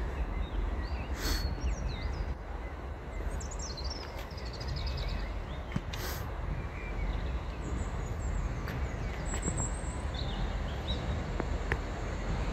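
Small birds chirping and twittering over a steady low outdoor rumble.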